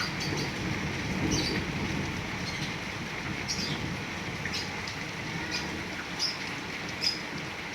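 Heavy rain falling steadily, with short high bird chirps coming every second or so.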